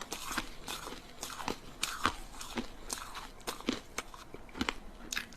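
Ice sticks being bitten and chewed: a string of irregular sharp crunches and cracks, several a second.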